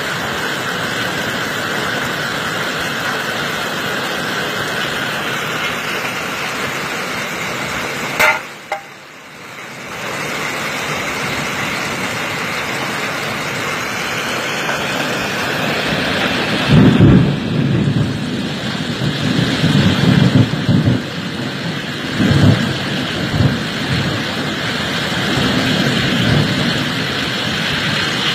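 Hailstorm: hail and rain pelting down in a steady hiss. A sharp knock about eight seconds in, then from about seventeen seconds a run of heavy low rumbles.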